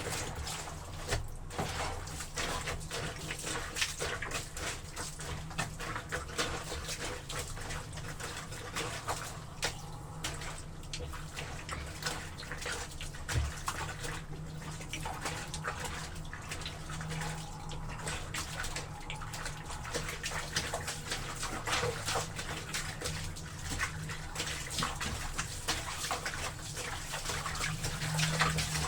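Laundry being trodden underfoot in a tub of soapy water, with irregular splashing and sloshing throughout.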